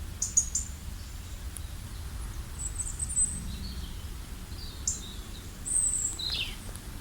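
Small birds chirping: scattered short, high calls, one sweeping down in pitch near the end, over a low steady rumble.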